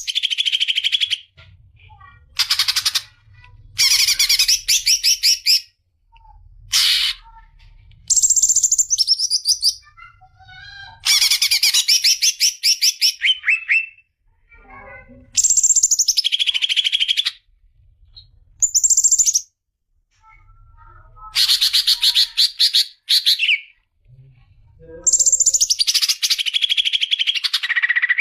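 A songbird singing loud phrases of rapid trilled notes, each phrase starting high and dropping in pitch. The phrases repeat about ten times with short pauses between them, as tutor song for training caged songbirds.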